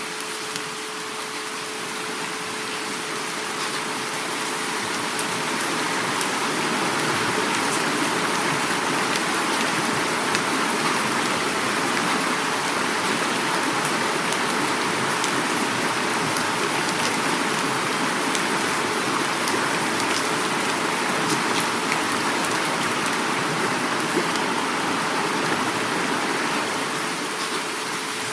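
Heavy rain falling steadily, mixed with rushing river water, a dense hiss with fine drop patter; it swells slightly louder over the first few seconds, then holds steady.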